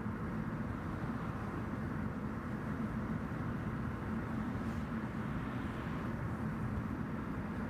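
Steady road and engine noise of a car driving, an even rumble with no distinct events.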